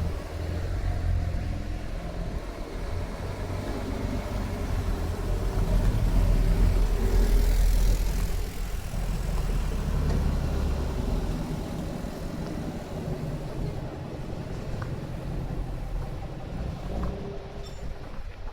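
A car's engine with a low exhaust note, running as the car drives past. It grows louder to a peak about seven seconds in, then eases off.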